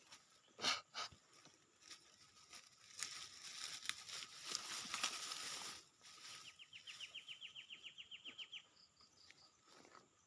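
Two sharp knocks close together about a second in, then a few seconds of rustling, then a bird's rapid trill of about eighteen short, high notes.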